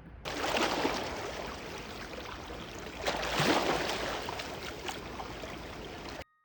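Sea waves washing onto a shore, a steady rush that swells twice, about three seconds apart.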